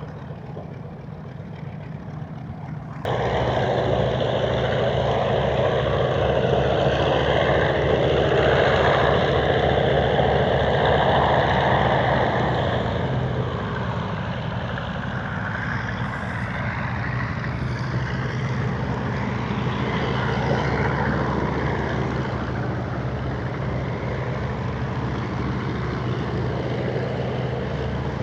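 B-25 Mitchell bomber's twin radial piston engines running with a steady low drone. The sound jumps up suddenly about three seconds in, is loudest for several seconds, then eases back to a steady run.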